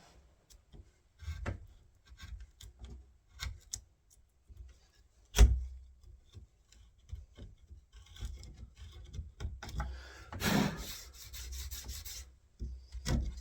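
Wood chisel cutting out a latch recess in a door edge: irregular taps and scrapes of the blade in the wood, with one sharp knock about five seconds in and a longer stretch of scraping around ten seconds in.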